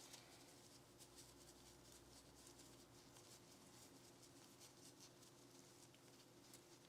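Faint scratching and light clicks of hands working on a Glock 19 pistol during cleaning or trigger work, over a low steady hum.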